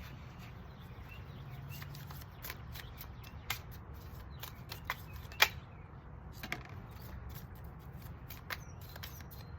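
A deck of oracle cards being shuffled and handled: scattered sharp snaps and clicks, the loudest about halfway through, over a steady low rumble.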